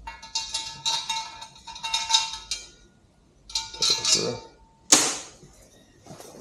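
Metal parts clinking and scraping against each other in bursts, with a ringing metallic tone, as something is worked through a freshly drilled hole in a steel swing arm extension to clear the shavings. One sharp metallic clank comes about five seconds in.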